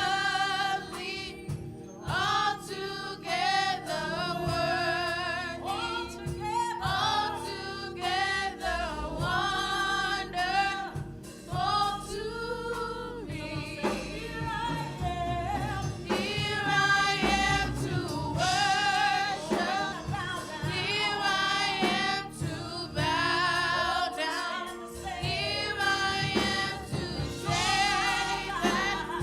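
Gospel worship song: a lead singer, with vibrato, over sustained keyboard or organ chords, with choir voices joining in.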